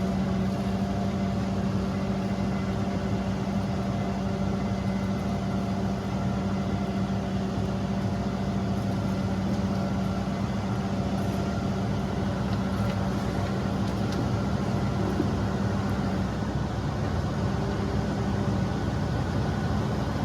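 Heavy diesel engine of an earthmoving machine running steadily at a constant speed, a low even drone with a few steady higher tones.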